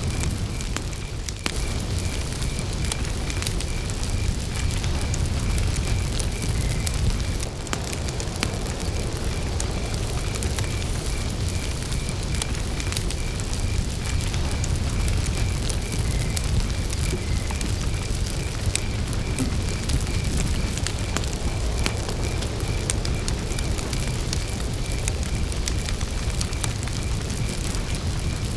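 Wood campfire burning with a steady low rush and frequent sharp crackles and pops. A cricket chirps at a high pitch in a steady even rhythm.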